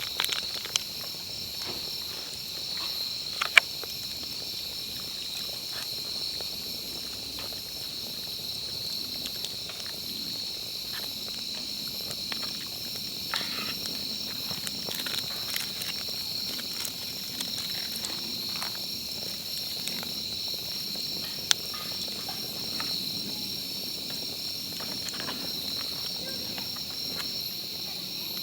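Steady chorus of insects chirping in a late-summer evening outdoors, with a few sharp clicks and taps of handling over it, the loudest about three seconds in and again near the end.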